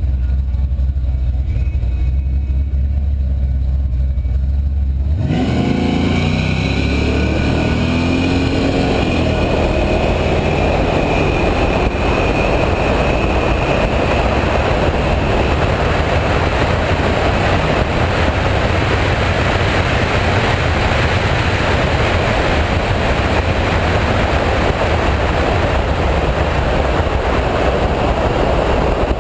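GM LS-series V8 idling with a low rumble, then launched at full throttle about five seconds in, the engine note rising through the gears. Heavy wind noise on the outside-mounted camera covers most of the pass.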